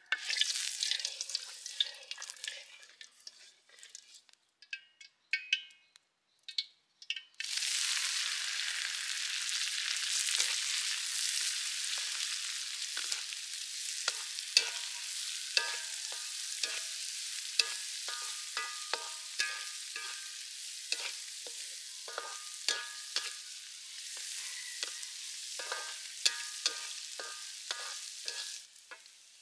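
Chopped chilies and basil stir-fried in hot oil in a metal wok. After a few seconds of short sizzles and clinks, a steady sizzle starts suddenly about seven seconds in. A wooden spatula scrapes and knocks against the wok many times, each knock making the metal ring briefly.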